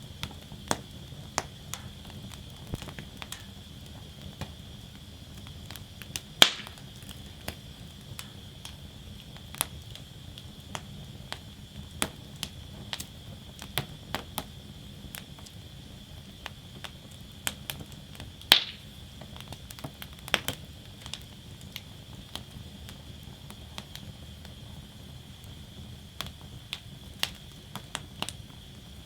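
Wood fire burning in a fire basket, crackling with irregular sharp snaps. Two loud pops come about six and eighteen seconds in, over a steady low rumble.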